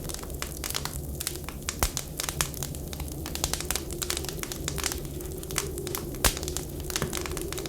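Wood fire crackling with frequent sharp pops, over a steady low whistling of blizzard wind.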